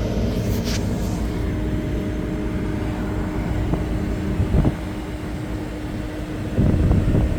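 Ford F550's 6.8-litre gas V10 idling steadily: a low rumble with one constant hum. A few knocks about halfway through and again near the end.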